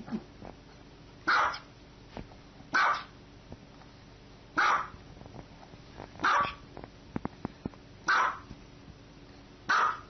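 Small white dog barking six times, one short, sharp bark about every one and a half to two seconds.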